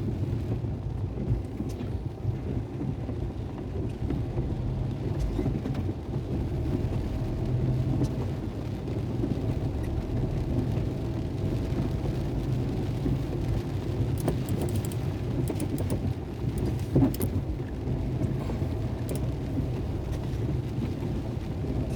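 Heavy rain falling, heard as a steady low rumbling noise, with a few faint ticks about fourteen and seventeen seconds in.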